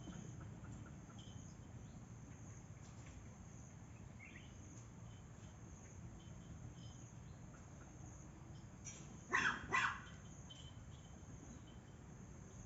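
A dog barking twice in quick succession, about three-quarters of the way in, over faint insect-like chirping and a low steady background.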